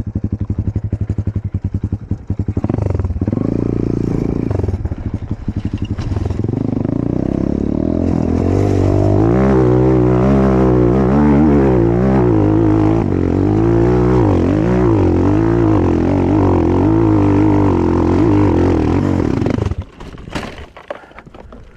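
Enduro motorcycle engine chugging at low revs, then running louder at higher revs with a wavering pitch for about ten seconds, before it cuts out suddenly near the end.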